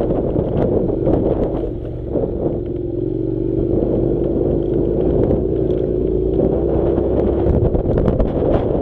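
Honda NC700's parallel-twin engine running under way on an off-road track, a steady note that eases briefly about two seconds in and then holds, with scattered clatter over the rough surface.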